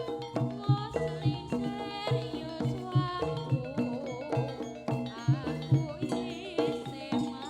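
Live Javanese gamelan music: low drum strokes and struck metal keyed instruments keep a quick steady rhythm, with a wavering melodic line coming in over them in the middle.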